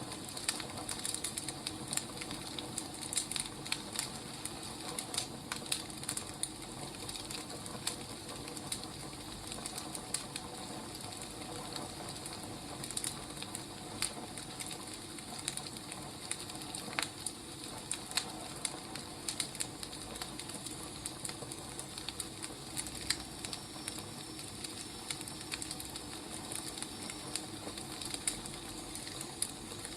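Firewood burning, crackling with irregular sharp pops and snaps over a steady hiss.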